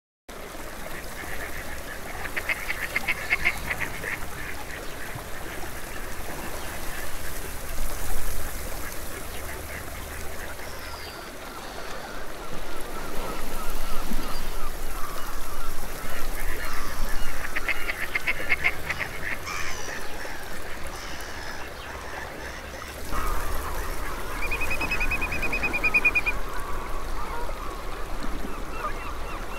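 Waterbirds calling in a few separate bouts of quick, chattering notes over a steady background hiss.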